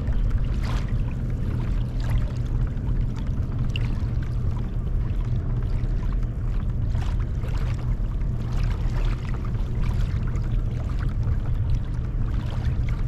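Water sloshing and splashing against a kayak hull under way, over a steady low rumble.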